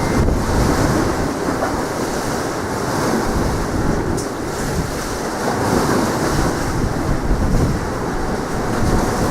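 Strong wind buffeting the microphone over sea surf: a steady, low, rushing noise that swells and eases.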